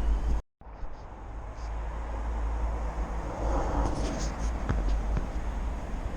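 Wind rumbling and rushing on the microphone during a bike ride, with a brief total dropout about half a second in.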